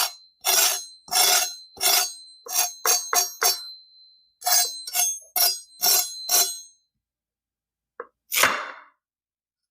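Crisp tahdig, the golden crust of Persian rice, crunching in a quick run of sharp crunches for about seven seconds, then one more crunch after a short pause.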